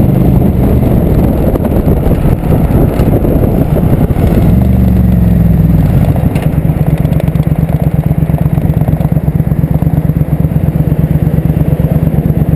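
Motorcycle engine running at a steady cruise. Its pitch rises and falls briefly about five seconds in, then holds steady.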